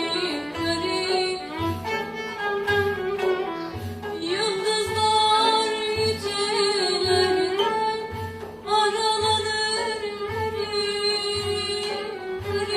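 Turkish classical music ensemble playing a şarkı in makam Hüseynî, usul Düyek: ornamented, gliding melody on bowed and plucked strings over a steady low drum beat a little under twice a second.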